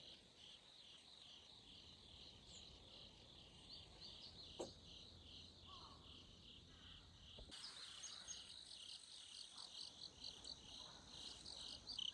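Insects, crickets by their sound, chirping faintly in a steady pulsing rhythm of about two or three chirps a second, with one faint click about four and a half seconds in.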